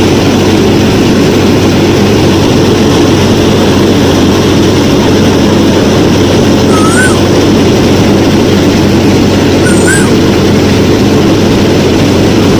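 DIY mini combine harvester's motor running in a steady, even drone. Two short rising chirps sound over it, about 7 and 10 seconds in.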